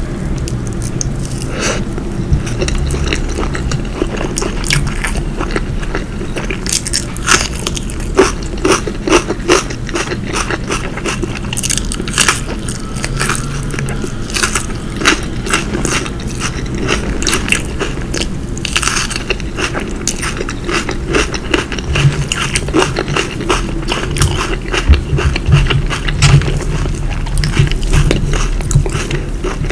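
Close-miked chewing and biting of cooked food, with dense, irregular wet mouth clicks and a few louder crunchy snaps.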